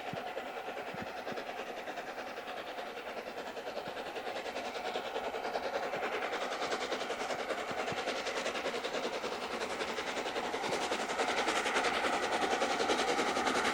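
Steam-hauled train running past, its sound growing steadily louder as it approaches.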